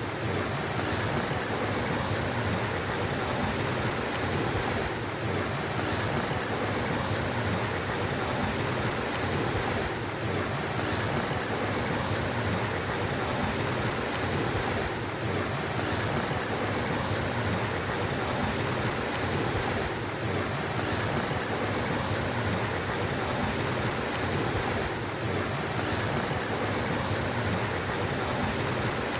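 Steady rushing of flowing water, an even, unbroken sound with a slight dip in level about every five seconds.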